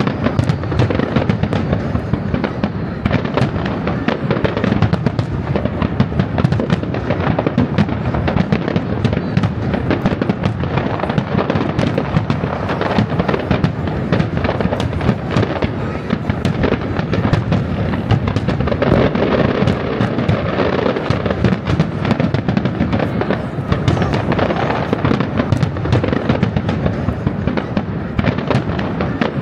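Aerial fireworks from a professional display bursting in quick succession. The bangs overlap with no pause.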